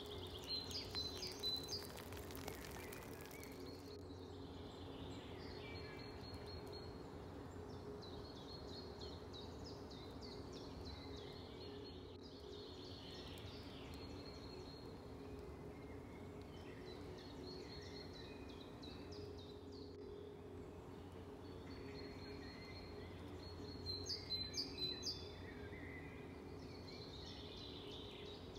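Several songbirds singing and chirping in a spring woodland over a steady low background hum. Two brief louder scratchy bursts come about a second in and again near the end.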